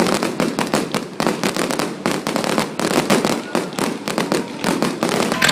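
Fireworks going off in a rapid, unbroken crackle of many sharp bangs.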